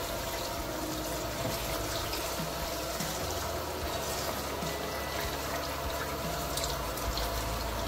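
Tap water running steadily into a sink over halved raw chicken being rinsed under the flow.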